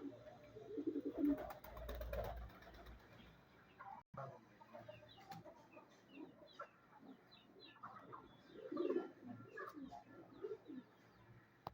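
Pigeons cooing in low, repeated phrases, loudest about a second in and again near nine seconds, with faint high chirps between them. The sound breaks off abruptly about four seconds in, then the cooing resumes.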